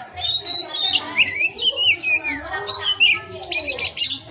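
Oriental magpie-robin (kacer) singing a varied song of sliding, rising and falling whistles, breaking into a burst of rapid chattering notes near the end.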